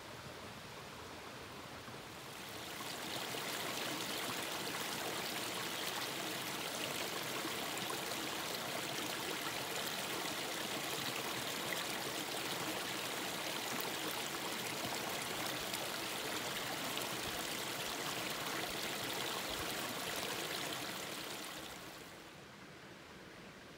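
Mountain stream flowing: a steady rush of water that swells about two seconds in, holds, and fades again near the end.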